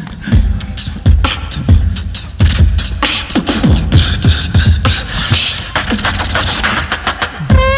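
Human beatboxing: a steady beat of deep kick-drum sounds that drop in pitch, with sharp snare and hi-hat clicks. Near the end a held, slightly wavering vocal note comes in over it.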